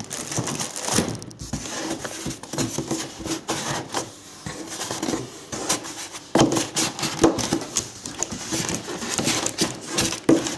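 Packaging being handled as the last contents are taken out of a cardboard box: irregular rustling with small knocks and taps.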